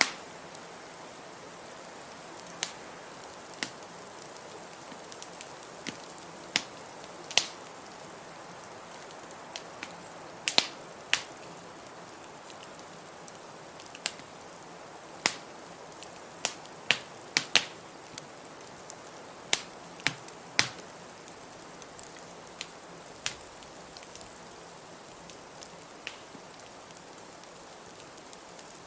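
Wood fire in a fireplace crackling, with irregular sharp pops every second or so over a steady hiss.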